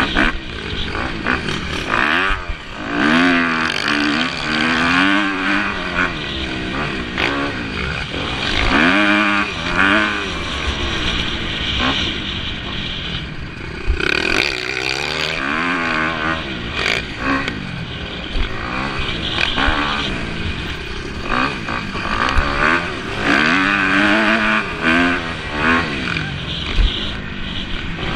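Several motocross bikes racing, their engines revving up and falling back over and over as the riders work the throttle and shift.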